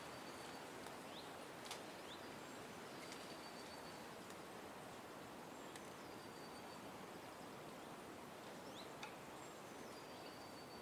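Faint outdoor ambience: a steady background hiss with scattered bird calls. The calls are short high whistles held for about half a second, a few quick rising notes and several sharp ticks.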